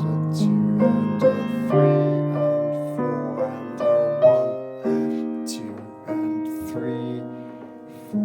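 Piano playing a slow melody over held chords, each note struck and left to ring and fade; the sound dies away toward the end before the next chord.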